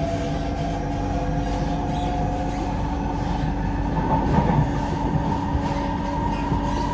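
Inside a moving Kawasaki–CRRC Sifang C151A metro train: steady rumble of the wheels on the rails, with the steady whine of the traction motors running through it. The wheel noise grows rougher about four seconds in.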